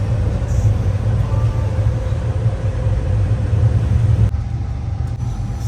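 Steady low rumble of a moving vehicle heard from inside, with a faint steady hum above it, dropping slightly in level about four seconds in.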